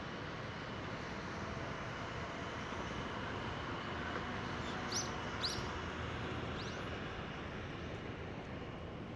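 Steady outdoor background noise with three short, high bird chirps a little past the middle.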